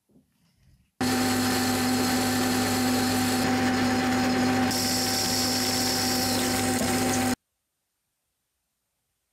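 An electric power tool running at a steady speed, a constant motor whine over a broad noise. It starts abruptly about a second in and cuts off abruptly about seven seconds in.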